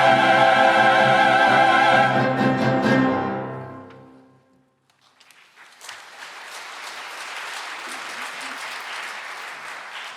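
Choir and chamber orchestra hold a loud closing chord, cut off about two seconds in and ringing away in the hall's reverberation. After a brief silence, applause starts about five seconds in and continues steadily.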